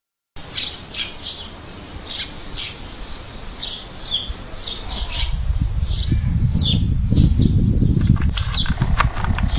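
Small birds chirping, many quick falling chirps. A low rumble builds up about halfway through and stays to the end.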